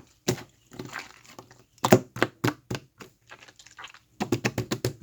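Slime being squished and folded by hand, making sharp clicks and pops, with a quick run of about six pops near the end.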